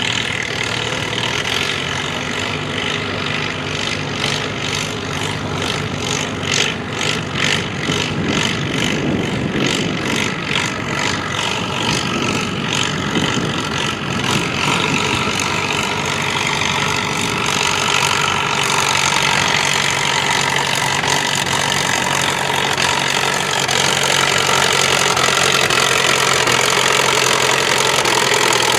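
Classic farm tractor engine running, with a rapid even firing beat early on; after about halfway it revs up, pitch and loudness climbing gradually.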